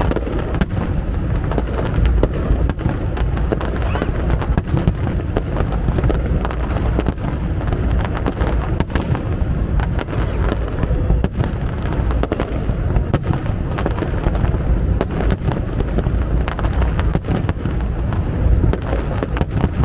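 Fireworks display going off without a break: many sharp bangs and crackles over a steady low rumble.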